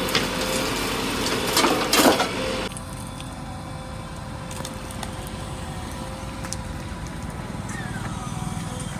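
Heavy machine engine running steadily, with a cluster of sharp cracks and knocks a couple of seconds in. Soon after that the engine noise drops to a quieter level.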